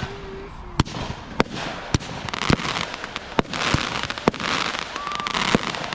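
Fireworks going off: a string of sharp bangs, roughly one every half second to second, with long stretches of dense crackling between them.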